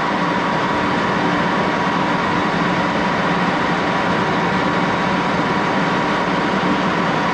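Axelson engine lathe running steadily at speed, a constant mechanical hum with a steady whine through it.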